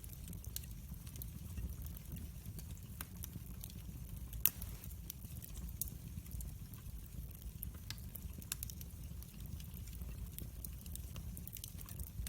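Wood fire crackling in a fireplace: irregular pops and snaps over a steady low rumble, with one sharper pop about four and a half seconds in.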